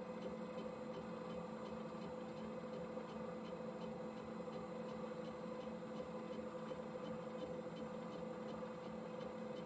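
Metal lathe running at a steady speed, a steady hum with a faint regular ticking.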